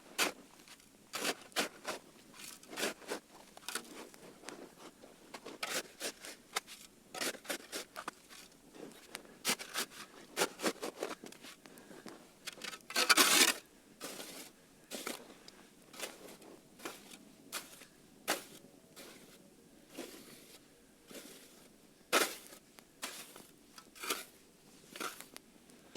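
Campfire crackling: irregular sharp pops and snaps of burning wood, with a louder burst of crackling about thirteen seconds in.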